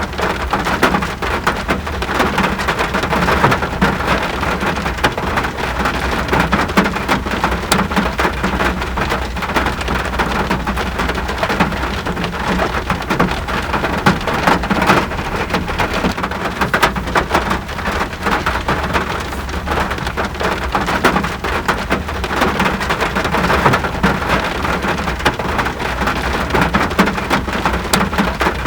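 Steady rain falling on surfaces: a dense, even patter of drops with a few sharper drip ticks and a constant low rumble underneath.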